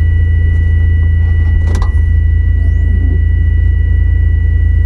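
Mazda RX-7 heard from inside the cabin while driving: a loud, steady low rumble of engine and road noise, with a thin steady high-pitched tone over it.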